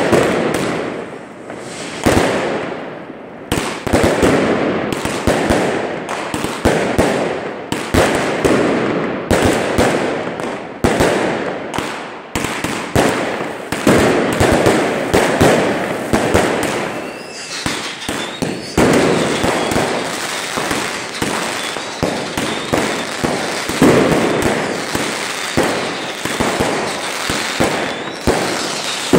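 Consumer fireworks going off in quick succession: shells launching and bursting overhead in a nearly unbroken run of shots and bangs. A thin wavering whistle runs through the middle part.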